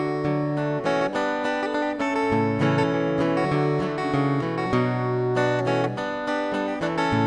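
Strummed acoustic guitar playing an instrumental passage of a song, with chords changing every second or so.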